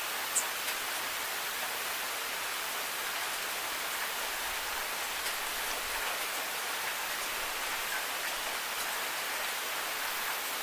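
Steady rainfall, an even hiss of rain with a few faint drop ticks and one slightly louder drop about half a second in.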